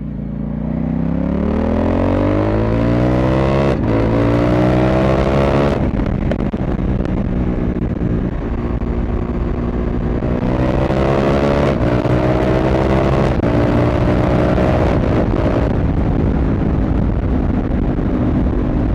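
CFMoto 800MT's parallel-twin engine and exhaust accelerating. The pitch rises through the gears, with quick upshifts that briefly break the note about 4 and 6 seconds in. It pulls up again from about 10 seconds, with more quick shifts, then runs steadily at cruising speed.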